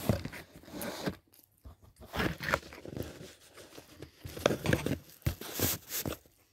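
A person chewing a mouthful of food close to the phone's microphone, coming in irregular clusters of mouth noise with short pauses.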